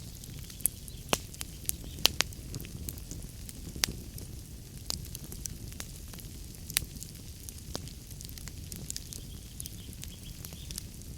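Wood fire in a fireplace crackling, with irregular sharp pops and snaps over a steady low rumble of the flames. A few pops stand out louder, the strongest about two seconds in.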